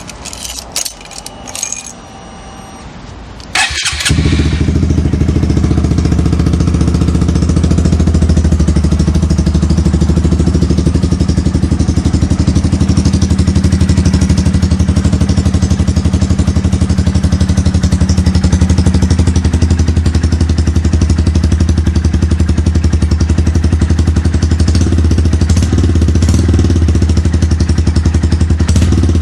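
Honda Grom's 125 cc single-cylinder engine starting about four seconds in, after a few clicks, then idling steadily through a K-Factory S-Line full exhaust system; loud.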